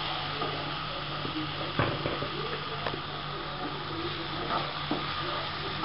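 Chicken and potato pieces frying gently in oil in a non-stick kadai, with a steady sizzle while a wooden spatula stirs and scrapes through them, knocking lightly against the pan a couple of times.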